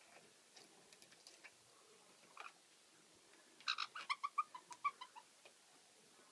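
Caique parrots making soft scattered clicks, then a quick run of about ten short chirps, slightly falling in pitch, a few seconds in.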